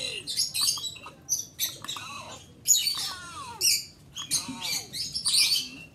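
A pet bird chattering in quick, high-pitched chirps and squawks, a few of them sliding down in pitch.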